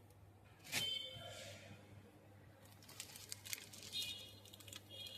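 Faint handling noises: a sharp click about a second in, then light rustling and a few more soft clicks, over a low steady hum.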